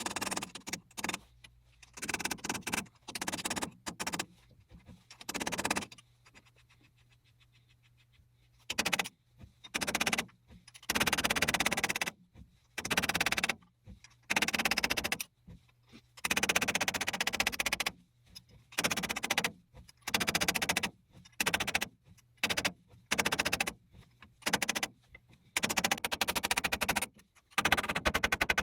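A lathe running with a steady low hum while something grates harshly against the work in irregular bursts, from a fraction of a second to about two seconds long, which come closer together after the first third.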